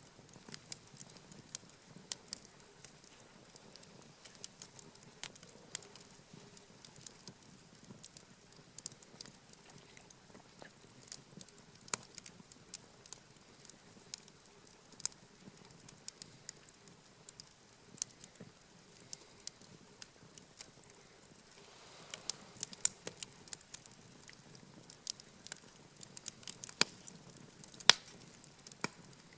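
Wood campfire crackling, with irregular sharp pops and snaps over a faint hiss. The pops come thicker and louder in the last several seconds.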